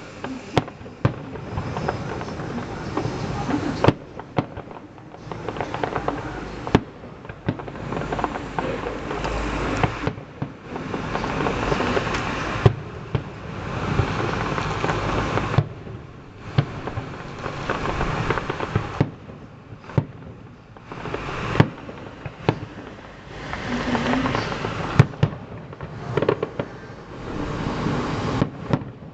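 Fireworks display: many sharp bangs and booms of bursting shells, over waves of crackling from the bursts that swell and fade every second or two.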